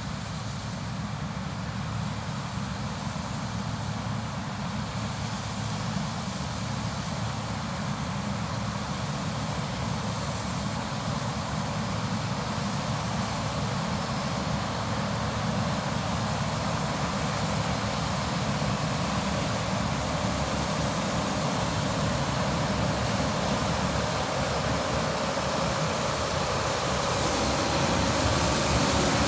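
New Holland CR 8.90 twin-rotor combine running steadily while harvesting corn, a continuous deep machine noise that slowly grows louder.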